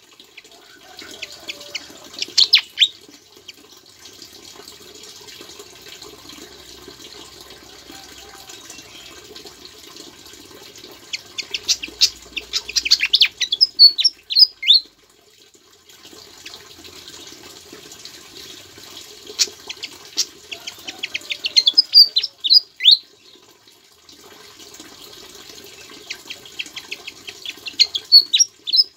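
Sikatan jawa singing in bursts of rapid high chirps and quick falling whistled notes, its song filled in with ciblek-style calls, about four bursts several seconds apart. A steady rushing hiss, like running water, fills the gaps.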